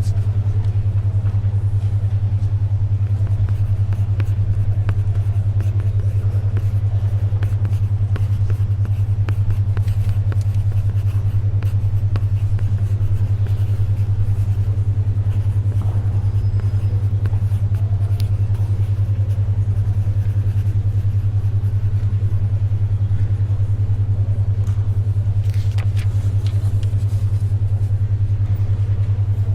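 A steady low hum near 100 Hz that pulses rapidly in loudness, a 10.2 Hz alpha brainwave tone, over faint library ambience with small ticks of pencil writing and a brief rustle of a page turning about 26 seconds in.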